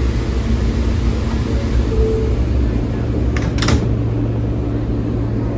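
R143 subway train running: a steady low rumble with a constant hum, and a brief sharp crackle about three and a half seconds in.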